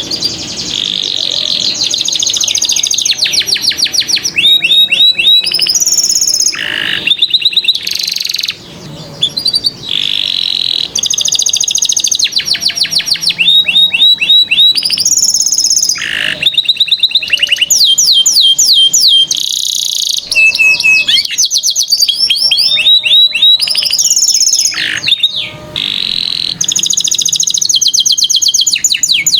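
Domestic canary singing a long, continuous, loud song of rapid trills and fast repeated high chirps, changing from one trill to the next, with only a couple of brief breaks.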